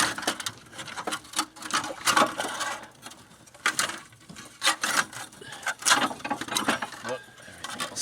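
Irregular metallic clicks, clinks and knocks of hand tools and loose metal engine parts being handled while the rear cylinder head is lifted off a V6 engine.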